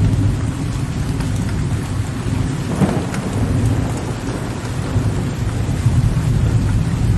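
Steady rain with a continuous low rolling rumble of distant thunder. About three seconds in, a brief sharper crackle of thunder rises out of the rumble and fades.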